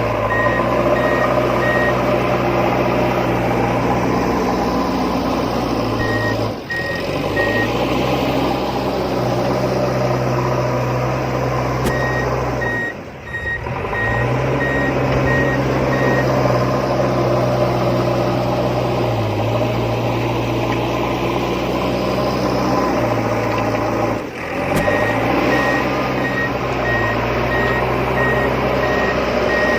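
Reversing-alarm beeps, a run of short evenly spaced tones at one pitch, over a steady motor hum from a remote-control toy construction vehicle. The hum and beeps dip briefly three times.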